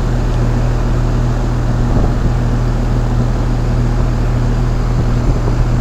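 2001 Trane XE1000 Weathertron heat pump outdoor unit running steadily in heating mode: the Climatuff compressor's low hum under the condenser fan's even whoosh. The outdoor coil is not frozen, so the unit is heating normally and not in a defrost cycle.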